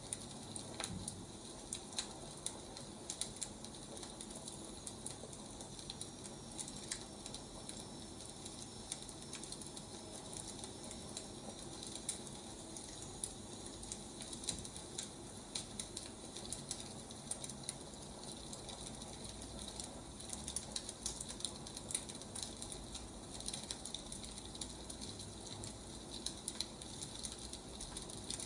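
Wood fire crackling: a steady soft hiss scattered with irregular small pops and snaps.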